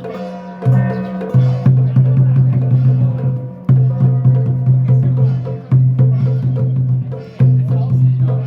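Ritual music: rapid percussion strokes, drum and wood-block-like clacks, over a low held tone that breaks off and starts again every one to two seconds.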